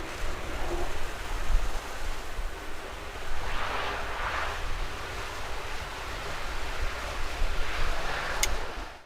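Strong wind buffeting the microphone: a steady rushing noise with an uneven low rumble, swelling louder a few times.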